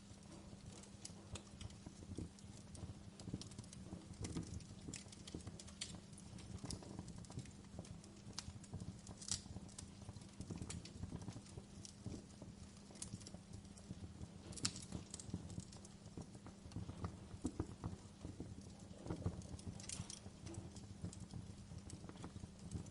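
Wood fire crackling: irregular sharp snaps and pops over a low steady rumble, with a few louder pops now and then.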